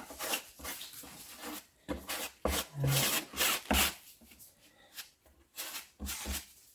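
Putty knife scraping wood putty across a wooden countertop in a series of short strokes, filling its flaws and knots.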